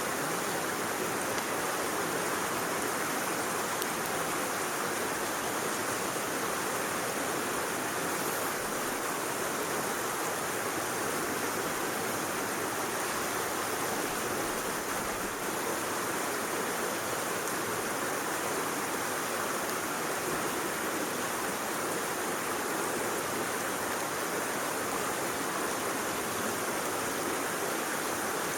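Steady rushing of a flowing stream, even and unbroken throughout.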